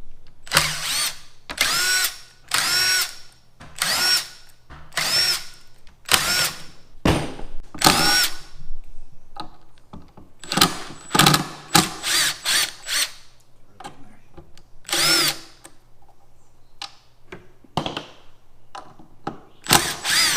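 Cordless impact driver run in repeated short trigger pulls, its motor pitch rising and falling with each burst, backing fasteners out of a Jeep tire carrier.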